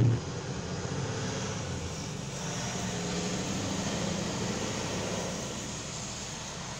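A road vehicle passing on wet pavement: its engine hum and tyre hiss build up, then fade away.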